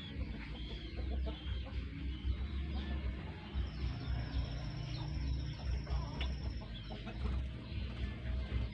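Small birds chirping in many short, high calls, with a long steady high trill lasting a few seconds midway, over a low rumble.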